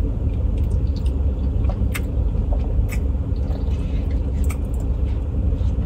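Steady low rumble of an idling car engine heard from inside the car, with a few small clicks and smacks from eating.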